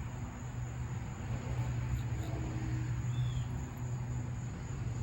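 Steady low background hum, with a faint short chirp about three seconds in.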